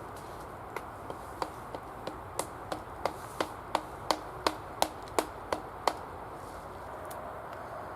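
A series of about sixteen sharp knocks, roughly three a second, growing louder as they go, over a steady background hiss.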